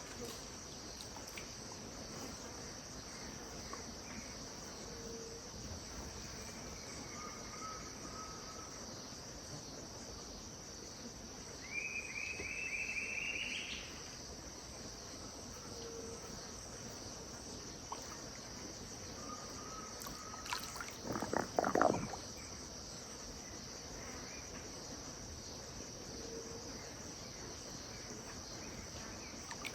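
Steady high-pitched drone of an evening insect chorus, with scattered bird calls over it: short whistled notes, a rising trill about twelve seconds in, and a louder burst of rough, repeated notes a little after twenty seconds.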